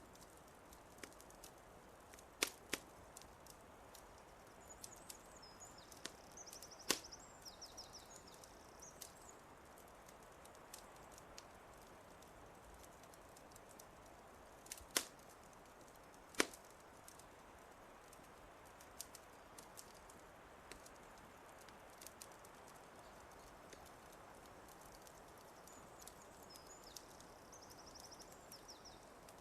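Wood fire crackling softly over a steady low hiss, with four sharp pops standing out: two a few seconds in, one about seven seconds in, and two more close together near the middle. A small songbird twitters briefly twice, high and light.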